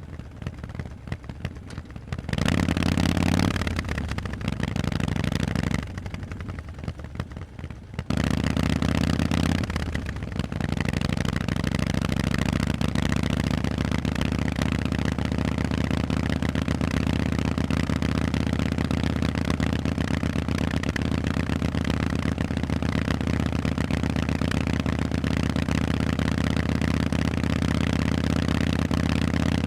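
Harley-Davidson Forty-Eight's air-cooled 1200 cc V-twin through Vance & Hines exhausts, under way: it runs quietly for about two seconds, opens up for a few seconds, drops back for about two seconds, then pulls again. After a brief dip it runs loud and steady for the rest.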